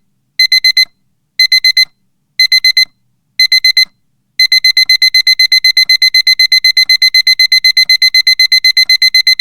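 Digital alarm-clock beeping that signals the countdown has run out: bursts of four quick high beeps once a second, which about four and a half seconds in become a continuous rapid beeping.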